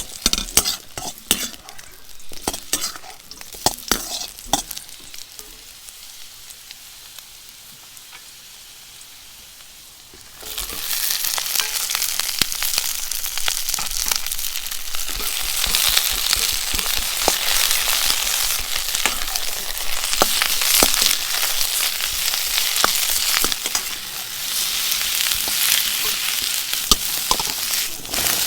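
Food frying in hot oil in an iron Chinese wok: a dense, loud sizzle that starts suddenly about ten seconds in and keeps going. Before it, scattered clinks and knocks of cookware being handled.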